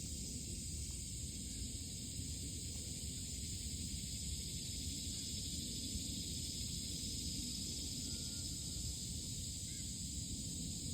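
Steady outdoor country ambience: a constant high hiss and a low rumble, with a few faint distant bird calls late on.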